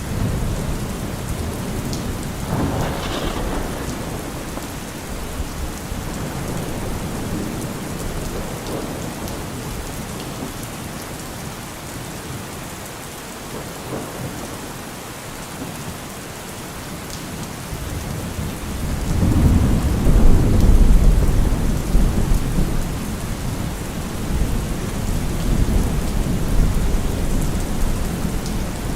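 Steady rain falling, with rolling thunder. A deep rumble of thunder swells about two-thirds of the way through, the loudest part, and slowly fades back under the rain.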